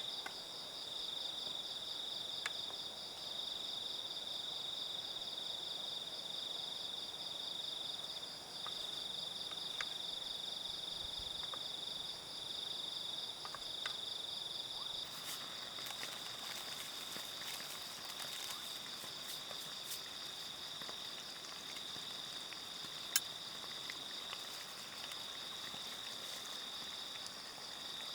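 Crickets chirping in a steady, high, rapidly pulsing chorus. Scattered small clicks and taps come in from about halfway through.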